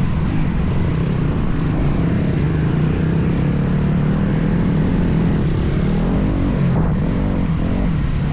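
Motocross bike engine running, its pitch rising and falling as the throttle is worked, over a heavy low rumble.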